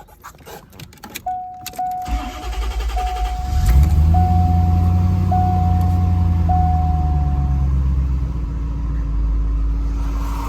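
1991 Corvette ZR1's LT5 32-valve V8 cold-started: after a few clicks the starter cranks it about two seconds in, it catches near four seconds and settles into a fast cold idle that slowly eases toward the end. A warning chime beeps about once a second over the start.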